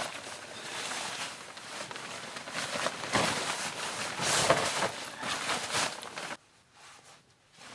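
Irregular rustling and crunching that stops abruptly about six seconds in.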